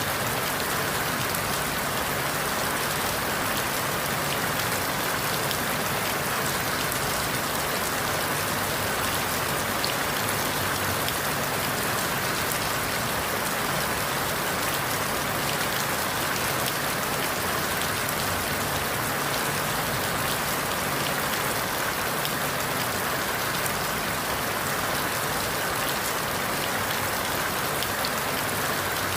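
Steady rain falling through forest leaves, an even hiss of countless drops with faint individual patters, unchanging throughout.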